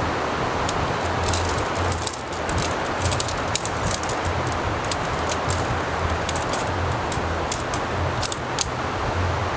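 Strong wind and surf making a steady rushing noise, with gusts rumbling on the microphone, and scattered sharp ticks of raindrops throughout.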